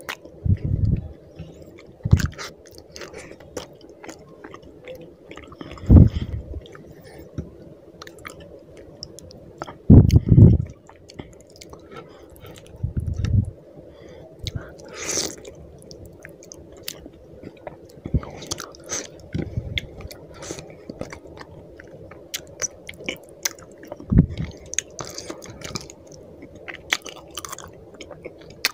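Close-miked chewing of fish curry and rice: wet smacking, squishing and small crunches as mouthfuls are eaten by hand, with a few louder low thuds now and then over a faint steady hum.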